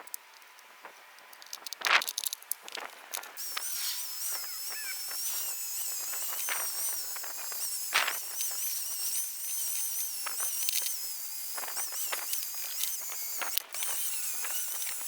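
Power wire wheel stripping paint from metal lathe parts: scattered scrapes and clicks, then from about three and a half seconds in a steady high-pitched whine that wavers as the wheel is pressed, over a rough scraping noise.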